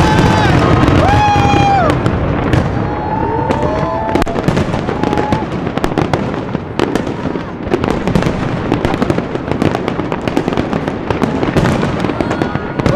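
New Year aerial fireworks display going off: a dense, continuous run of crackles and bangs.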